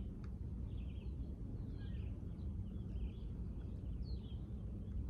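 Small birds chirping over and over, with a steady low rumble underneath.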